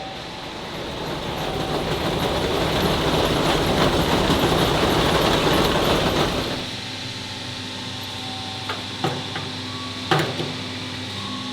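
Heavy machinery running with a loud, noisy rumble that builds over a few seconds and drops away suddenly about six and a half seconds in. A steady hum and a couple of sharp knocks follow.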